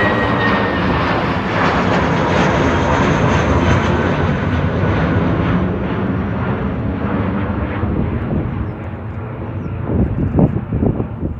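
Jet airliner's engines passing close and then drawing away: a loud roar with a slightly falling whine, its high end fading steadily, and a few rougher crackling surges near the end.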